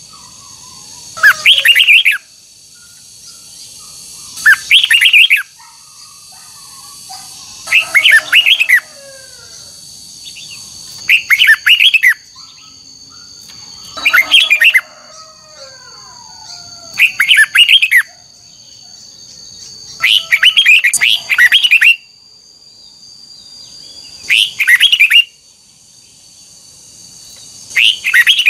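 Red-whiskered bulbul singing loud, short song phrases, one about every three seconds, over a steady high-pitched whine.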